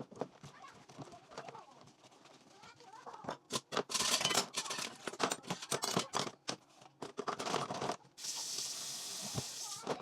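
Dishes and utensils being handled, with irregular clinks and clatters that grow busier about halfway through. Near the end a tap runs steadily for about two seconds.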